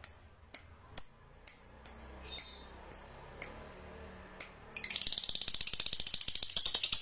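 Songbird calling: a string of sharp, high chips about two a second, then, about five seconds in, a fast, high, rhythmic chatter that grows louder near the end.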